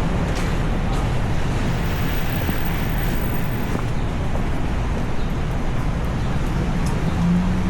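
Heavy rain falling on a city street, a steady hiss, with traffic rumbling underneath.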